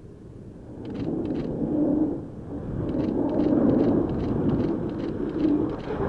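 Jeep Grand Cherokee driving at speed through an elk-test lane-change manoeuvre, its vehicle noise swelling and easing as it swerves.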